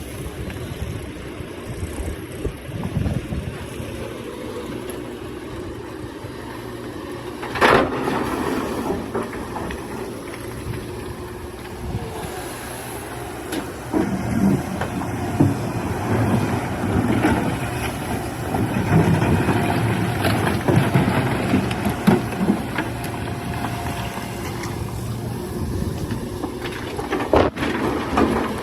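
Excavator's diesel engine running, with a sharp knock about eight seconds in and a run of irregular knocks and clanks in the second half: the bucket striking and scraping rock.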